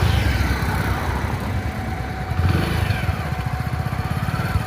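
Motorcycle engine running with a fast, steady low exhaust pulse, getting louder for a moment about halfway through.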